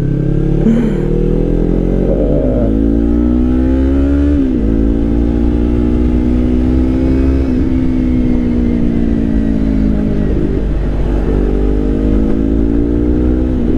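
Yamaha R3's parallel-twin engine through an Akrapovič GP slip-on exhaust, pulling under load on the road: the engine note climbs, drops sharply at an upshift about four and a half seconds in and again near eight seconds, sags a little, then climbs again near the end.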